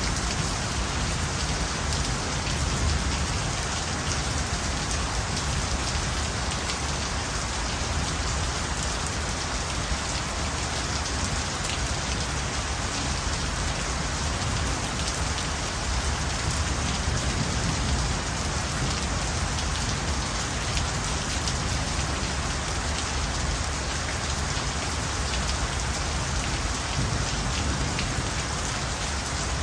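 Steady rain falling, a dense even wash of noise flecked with countless small drop impacts.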